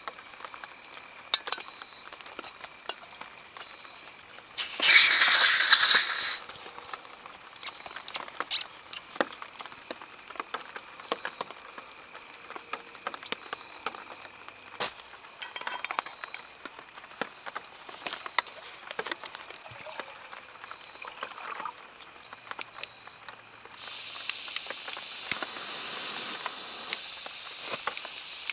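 Rain dripping and pattering on a tarp shelter, heard as a steady scatter of small taps. A short loud burst of noise comes about five seconds in, and a steady high hiss sets in about four seconds before the end.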